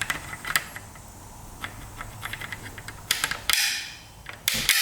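Small metallic clicks and creaks of corroded contact-breaker points being worked open and closed by hand, freshly lubricated after sticking. A few short hissing bursts come near the end.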